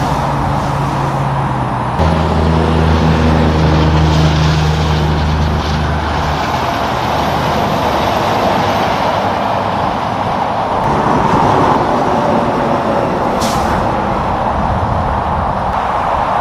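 Semi-truck traffic on a road: steady tyre and road noise with a low diesel engine drone that fades out about six seconds in, and a brief high hiss about three-quarters of the way through.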